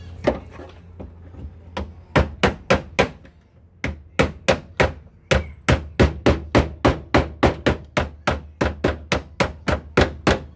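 Hammer blows: a few scattered strikes, then after a short pause a fast, even run of about four strikes a second.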